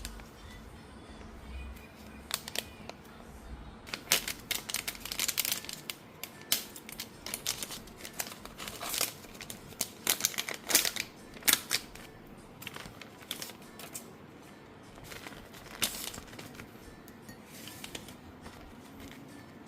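Crinkling and rustling of packaging being handled, in irregular clusters of sharp crackles, busiest through the middle and a few more near the end.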